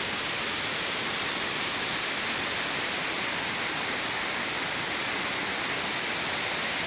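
Steady rush of cascading water, an even hiss that holds without change.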